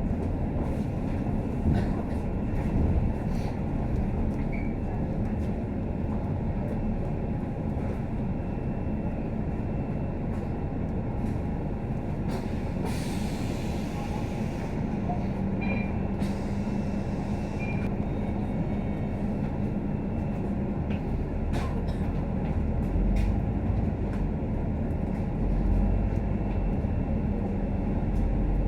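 Scania K310UD double-decker bus running, heard from inside the cabin: a steady low engine and road rumble with scattered short rattles and clicks. A hiss sounds twice, about 13 and 16 seconds in, and the low rumble grows stronger near the end.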